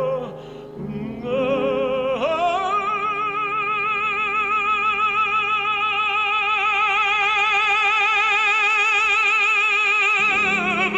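Operatic tenor singing one long held note with even vibrato on the word «не». He slides up into the note about two seconds in and lets it go near the end.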